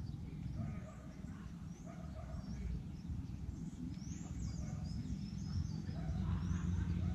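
Birds chirping in short, high, rising and falling calls, busiest about four seconds in, over a low steady rumble.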